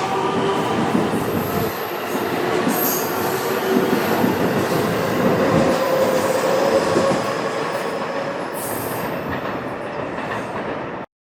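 JR West 223 series 2000 electric train running on the rails, a steady rumble with brief thin, high wheel squeals; the sound cuts off suddenly near the end.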